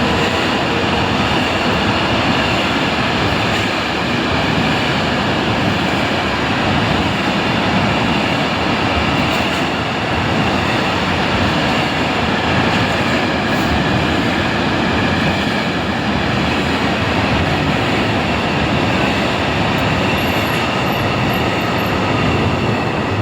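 Train running through a railway station: a loud, steady rolling noise of wheels on rails with a faint high ringing over it. It cuts off suddenly at the end.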